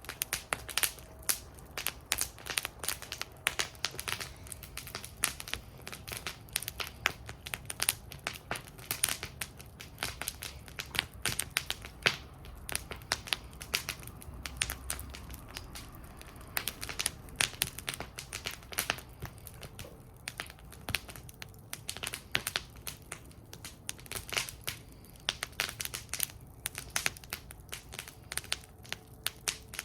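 Wood campfire burning in a fire bowl, crackling with many sharp, irregular pops over a low steady rumble of flame.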